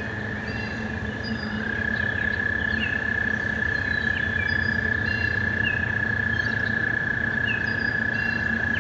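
American toads trilling: a long, steady, unbroken high trill, with a second toad's slightly higher trill taking over about one and a half seconds in, their mating call. Birds chirp short repeated notes above it.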